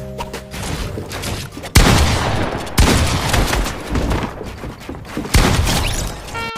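Rapid gunfire with booms, setting in sharply about two seconds in and running on in dense bursts, after the last notes of music die away.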